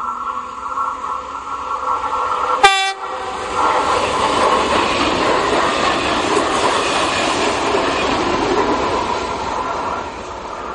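SNCF Z 24500 double-deck electric multiple unit gives one short horn blast about three seconds in. It then passes close by with a loud rush of wheel and rail noise, easing off near the end.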